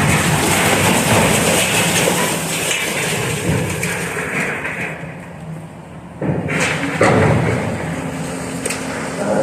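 Part of a building collapsing during demolition: a long crash of falling, breaking debris that eases off about five seconds in, then two more sudden heavy crashes about a second apart.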